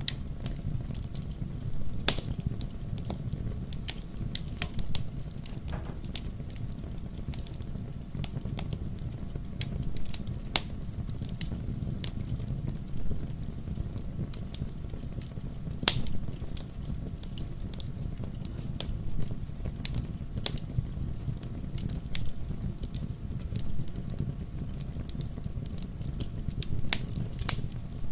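Wood fire crackling and popping in a fireplace: a steady low rumble of the flames with irregular sharp snaps, a few louder pops among them.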